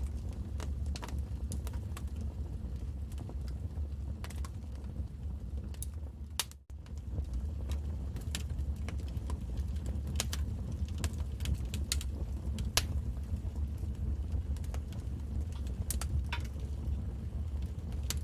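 Wood fire crackling in a fireplace: irregular sharp pops and snaps over a low, steady rumble of burning. The sound cuts out for an instant about six and a half seconds in.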